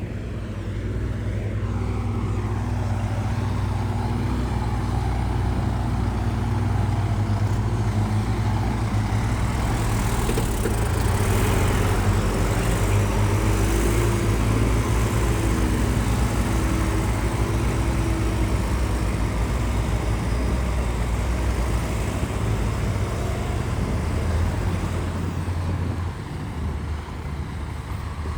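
Heavy diesel engine of earthmoving machinery running under load, a steady low rumble that builds over the first couple of seconds. A faint higher whine joins in around the middle and the level eases slightly near the end.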